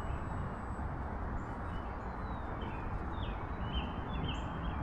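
Wind buffeting the microphone in a steady low rumble, with a bird chirping several times in short notes from about a second in.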